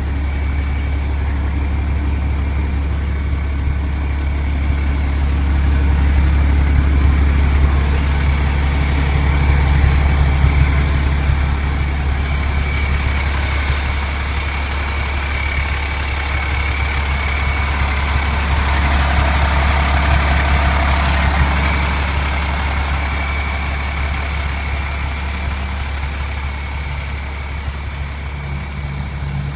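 International DT466E inline-six diesel engine of a medium-duty truck running steadily at idle, with a steady high whine over the engine note.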